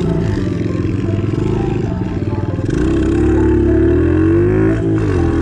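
Small pit bike engine running under throttle, its pitch dropping as the throttle is rolled off about two seconds in, then climbing and holding high, with another brief dip near the end.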